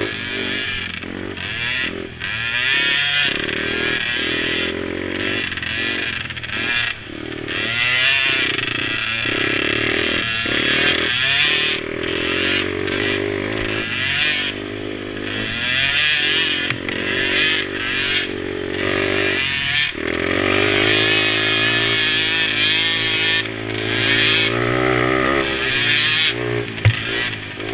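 Small mini quad engines revving up and down repeatedly, the pitch rising and falling every few seconds as they accelerate and let off.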